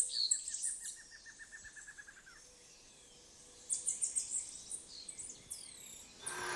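Several birds calling: bursts of rapid high chirps, a run of evenly spaced lower notes lasting about two seconds, and a few falling whistles. A steady hiss comes in near the end.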